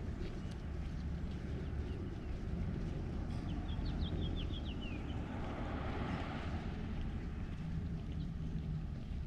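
Outdoor neighbourhood ambience with a steady low rumble. A bird gives a quick run of short, high, falling chirps about four seconds in, followed by a brief swell of hiss around six seconds.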